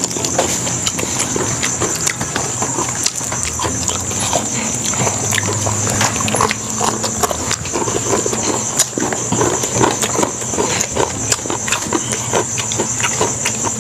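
Mukbang-style eating sounds: people chewing and smacking their lips on fried chicken and rice eaten by hand, a steady stream of short wet clicks and smacks, over a steady high hiss.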